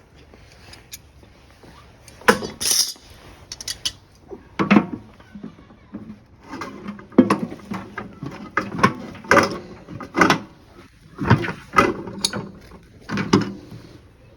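A hand tool prying at a washing machine's parts: irregular metal knocks, clanks and scrapes, about a dozen sharp hits spread unevenly.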